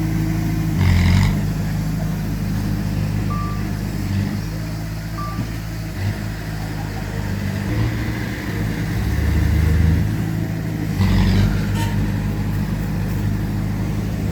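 Heavy diesel engines of earthmoving machinery running steadily, with two short high beeps a few seconds in and two brief hissing bursts, about a second in and near eleven seconds.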